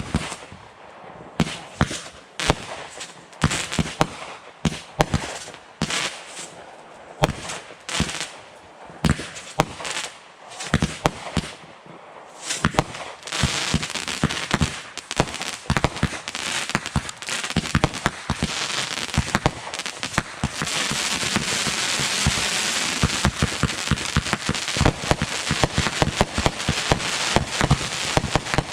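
Fireworks going off: separate sharp bangs, one or two a second, for the first dozen seconds. Then a dense run of rapid crackling pops that carries on to the end.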